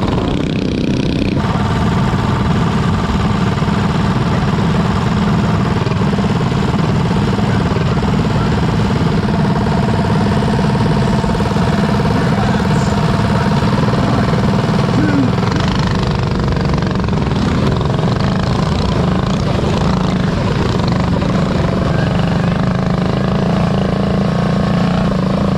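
Predator 212cc single-cylinder four-stroke mini bike engines running hard through a race, the engine note rising and falling with the throttle over a heavy low rumble.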